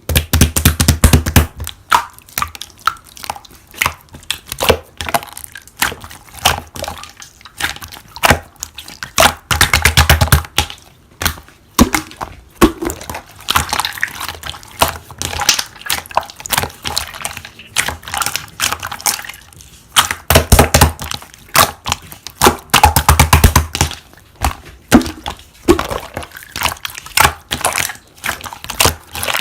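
Slime being squeezed, pressed and stretched by hand: dense wet clicks and crackling pops in uneven bursts, with a few heavier squelches.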